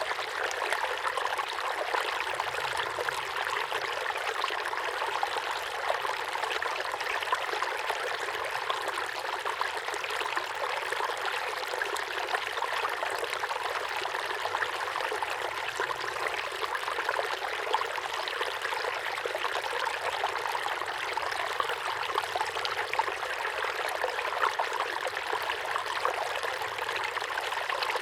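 Small waterfall pouring steadily into a pond, a constant splashing trickle of water.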